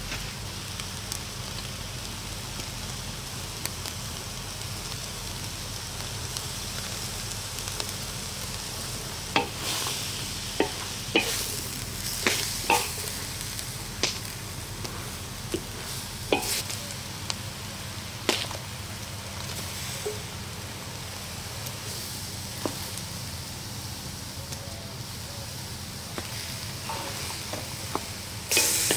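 Chickpeas and spices frying in a large stainless steel wok over a wood fire, a steady sizzle. From about ten seconds in, a wooden spoon stirs them, knocking and scraping against the steel wok in sharp clacks, and the sizzle gets louder near the end.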